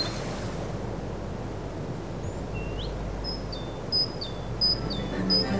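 Outdoor ambience: a steady background hiss, with a small bird calling. In the second half it repeats short high whistled notes, each followed by a lower one, about one pair a second.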